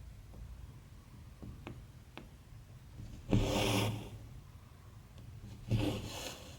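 Embroidery thread drawn through cross-stitch fabric: two rasping pulls, about three seconds in and near the end, with a few faint ticks of the needle before them.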